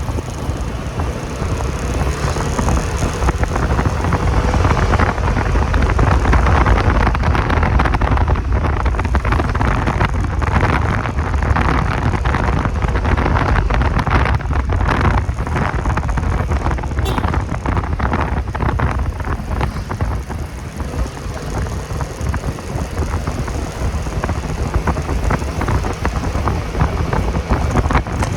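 Motorcycle riding, its engine running under a steady low rumble, with wind buffeting the microphone.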